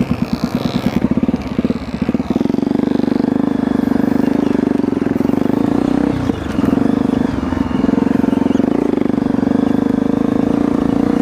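Trail motorcycle engine running at a steady, fairly high throttle, with a brief drop in revs about six seconds in before it picks up again.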